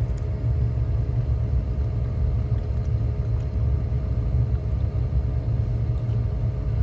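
Small four-cylinder car engine idling, heard from inside the cabin as a steady low rumble.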